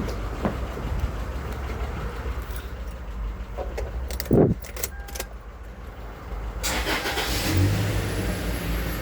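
A 2017 Toyota Land Cruiser Prado's engine being started after the battery change. A loud thump comes about four seconds in, then the engine catches near seven seconds and settles into running.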